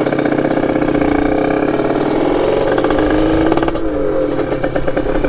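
Yamaha RX-King's single-cylinder two-stroke engine accelerating, its pitch climbing for a few seconds, dropping sharply at a gear change about four seconds in, then climbing again.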